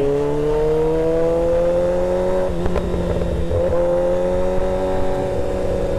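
Kawasaki ZX-6R 636 inline-four engine running under way, its note rising slowly for the first couple of seconds, turning rough for about a second halfway through, then holding a steady pitch.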